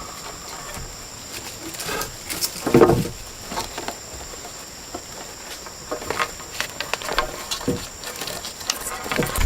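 Rainforest insects keep up a steady, high-pitched drone, with scattered knocks and rustles over it; the loudest is a thud a little under three seconds in.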